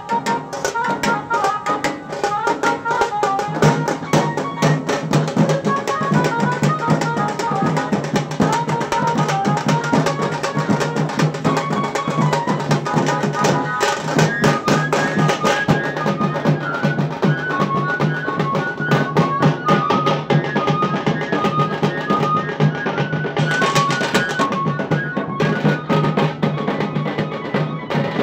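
A tasa drum band playing: fast, dense drumming on tasa drums with a melody of short high notes running above it.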